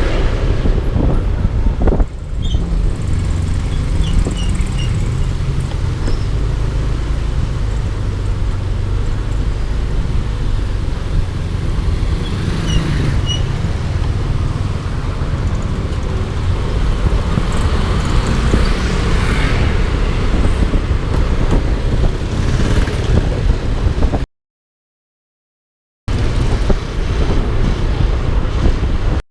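Heavy wind rumble on the camera microphone over a running scooter engine and road noise while riding a Yamaha Aerox. The sound cuts out completely for about two seconds near the end.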